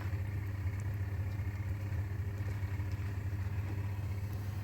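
Blanket washing machine running, its motor giving a steady, even hum.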